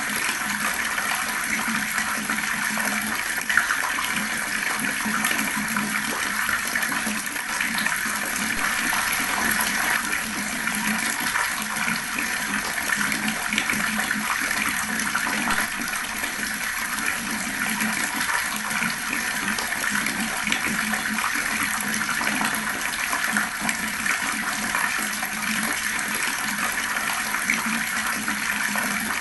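Fast-flowing water pouring in a steady, unbroken rush.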